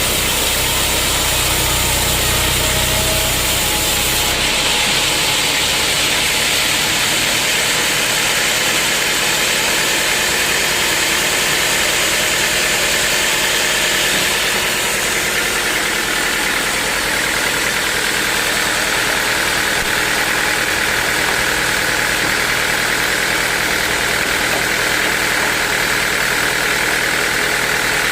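Sawmill machinery running loudly and steadily. The sound changes character about four seconds in, when the deep rumble drops away, and shifts again around fifteen seconds.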